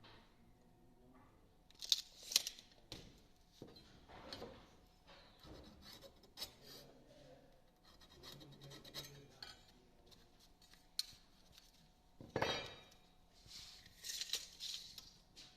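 Faint clicks, taps and scrapes of hand tools being handled on wooden boards during marking out, with a few louder knocks and scrapes about two seconds in and near the end.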